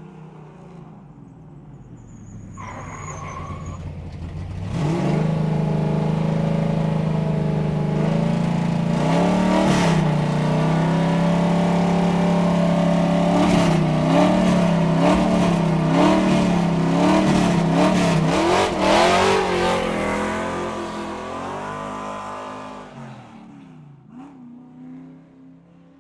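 Car engine that swells in about four seconds in and runs steadily, then revs up and down several times in quick wavers before fading away near the end.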